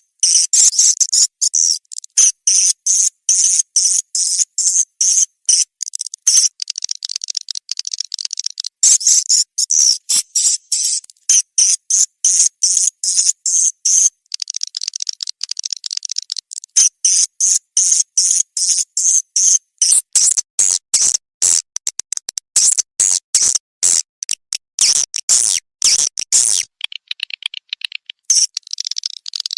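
Recorded swiftlet calls: a dense run of high-pitched chirps and twitters, several a second, played as a lure sound to attract swiftlets to a nesting house. Near the end the chirps turn softer and a little lower.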